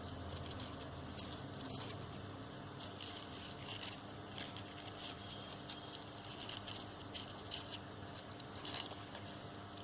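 Crisp, irregular rustling and crinkling of paper being handled: crepe-paper leaves and paper flowers worked by hand.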